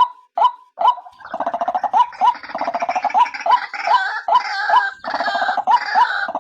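White-breasted waterhen calls, billed as a female's lure call for bird trapping: short, evenly repeated notes about two a second. About a second in, a fast, dense gurgling chatter joins them and runs on under the repeated notes.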